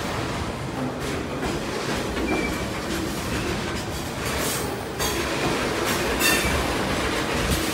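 Freight train rolling on the track: a steady rumble of steel wheels on rail, with a few brief high wheel screeches in the second half.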